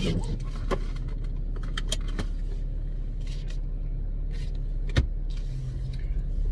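Steady low hum of an idling car heard from inside the cabin, with scattered light clicks and rustles of handling, and one sharper click about five seconds in.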